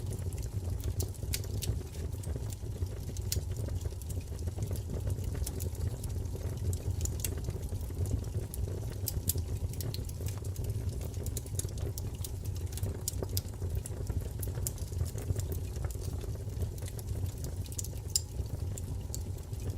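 Wood fire crackling: a steady low roar of flames with frequent, irregular sharp pops and crackles.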